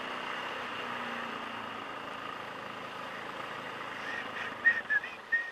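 Motorcycle engine running steadily at low speed in town traffic, heard from the rider's position with a steady rush of road and wind noise. A few short, high chirps come near the end.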